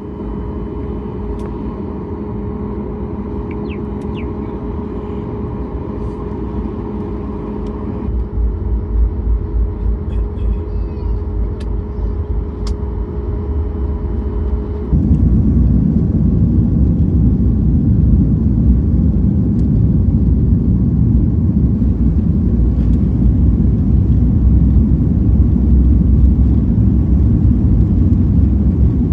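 Airliner engines on takeoff: a steady whine over a low rumble, growing louder about eight seconds in, then about halfway through a sudden jump to a loud, deep rumble that holds as the plane powers down the runway.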